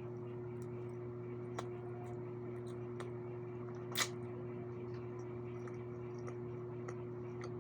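Close-miked eating: chewing pork steak and rice, with small scattered wet mouth clicks and one sharper click about four seconds in, over a steady low hum.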